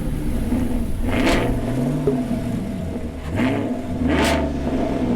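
Vehicle engine idling and revved twice, the pitch climbing with each rev.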